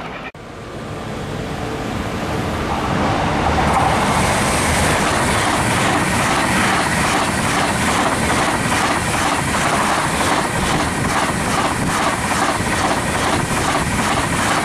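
An SBB electric passenger train passing close by at speed. Its rumble swells over the first few seconds, then stays loud and steady, with a regular beat as its bogies go by.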